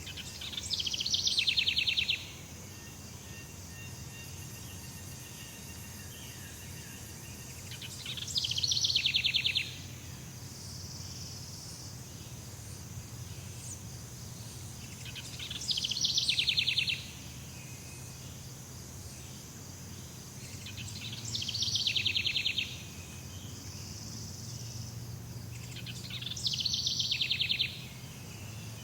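Jungle ambience: a loud, rapid pulsed trill call, each about one and a half to two seconds long, that swells and then cuts off suddenly, repeated five times about every six seconds over a steady high-pitched insect drone and a low hum.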